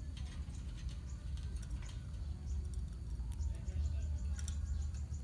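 A colony of lovebirds chirping, with many short, high chirps overlapping and following one another quickly over a low steady hum.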